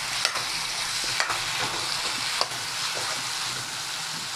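Chicken pieces sizzling in hot oil with onions in a pan, stirred with a metal spoon that clicks and scrapes against the pan a few times.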